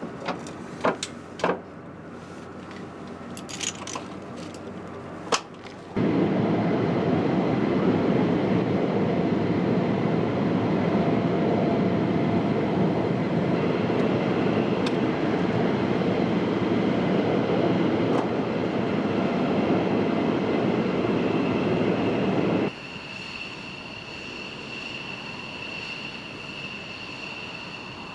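Saab JAS 39 Gripen fighter jet engine noise across several edited shots. First a few sharp clicks and knocks over a low hum, then a loud, steady rushing jet noise, and after a sudden cut a high, steady turbine whine.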